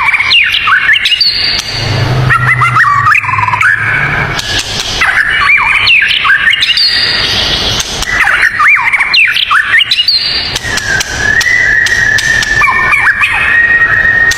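White-rumped shama singing: loud bouts of rapid, varied whistled phrases with quick up-and-down sweeps, ending in a long, steady high note.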